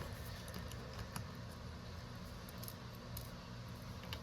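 Faint, scattered small clicks and taps over a steady low hum in a small room.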